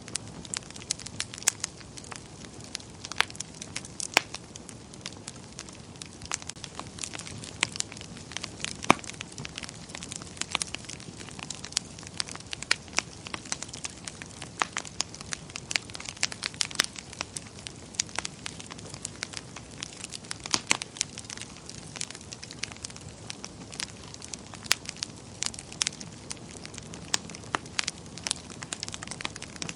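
Wood fire burning in a fireplace: a soft steady hiss of flames with frequent irregular crackles and sharp pops from the logs.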